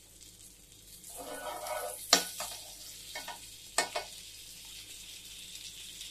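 Egg batter frying in a nonstick pan, sizzling steadily in the butter added round its edge. There are two sharp taps, one about two seconds in and a second near four seconds.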